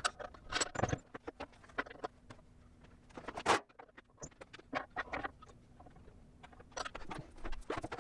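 Irregular clicks and knocks from a sheet-metal floor patch panel being worked and handled while it is shaped, with the strongest knock about three and a half seconds in.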